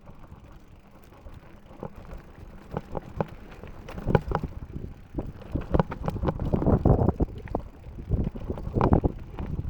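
Mountain bike clattering over rough, rocky trail: irregular knocks and rattles from the tyres and bike, with a low rumble underneath. It grows denser and louder from about four seconds in.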